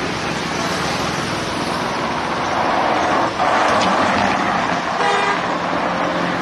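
Road traffic noise, with a car horn honking briefly about five seconds in.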